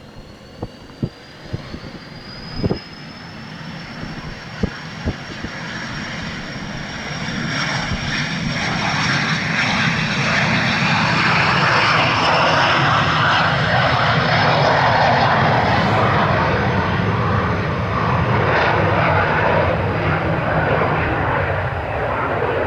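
Cessna 525 CitationJet's twin Williams FJ44 turbofans powering up for takeoff: a high whine that rises over the first few seconds and then holds steady, while the jet roar builds and stays loud through the second half. A few sharp clicks come in the first five seconds.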